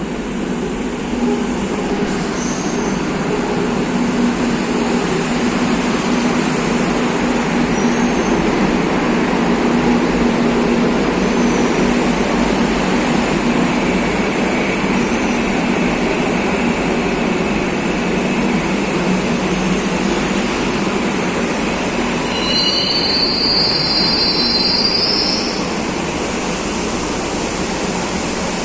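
Madrid Metro series 2000B train running on line 5, a steady rumbling rail noise. Near the end a high wheel squeal sounds for about three seconds.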